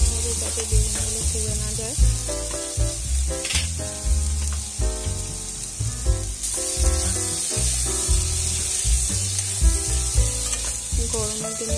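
Eggplant pieces sizzling in hot oil in a kadai, stirred and tossed with a metal spatula that clicks and scrapes against the pan. Background music plays underneath.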